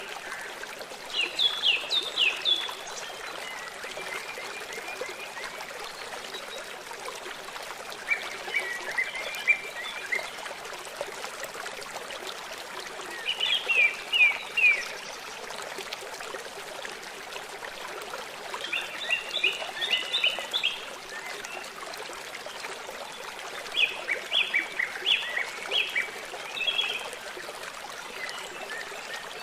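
River water running steadily, with a bird singing short, rapid chirping phrases that recur about every five seconds.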